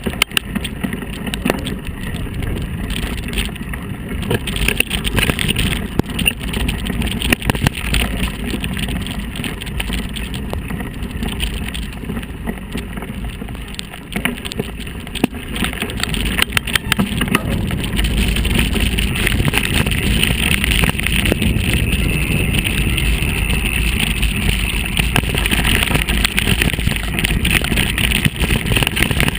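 Steady rumbling noise of riding along on a bicycle, with wind on the microphone and scattered short rattles and clicks. It grows louder about two-thirds of the way in.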